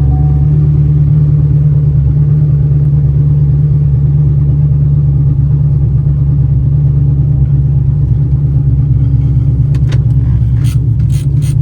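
Cammed 2016 Camaro SS's 6.2-litre LT1 V8 idling steadily, just after a cold start. A few sharp clicks sound near the end.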